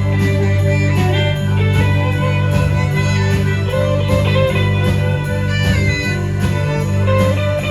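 Live band playing an instrumental passage: guitar lines over sustained bass notes and a steady drumbeat with a cymbal ticking about three times a second.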